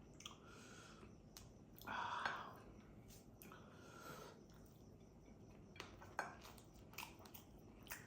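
Quiet eating sounds from a person eating crab curry: a few short noisy mouth sounds, the loudest about two seconds in, then light clicks of dishes or cutlery in the last few seconds.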